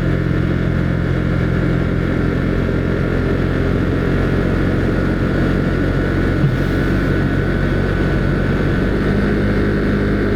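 Husqvarna Svartpilen 401's single-cylinder engine running steadily while riding at speed, with wind rushing over the microphone. The engine note shifts slightly about nine seconds in.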